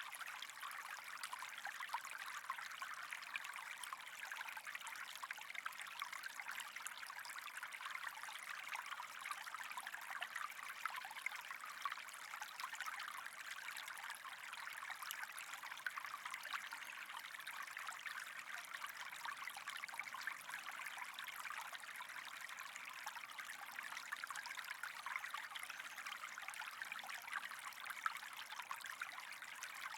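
Steady trickling, running water with a fine crackle, even and unbroken throughout.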